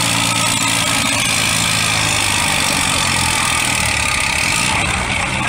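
Antique farm tractor engine running hard under load while pulling the weight sled. Its pitch drops about two seconds in as it lugs down.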